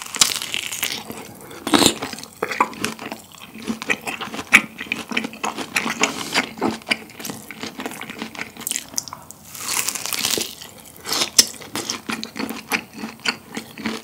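Close-miked chewing of a bite of crispy grilled Iberico bellota pork French rack: crackly crunches from the crisp fat and wet, sticky chews. There are louder crackly spells about two seconds in and again around ten seconds.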